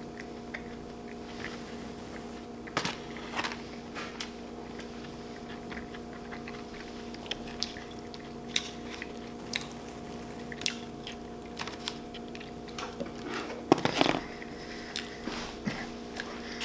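Close-miked chewing and mouth sounds: scattered short wet clicks and smacks, busier for a moment about fourteen seconds in. A steady low hum runs underneath.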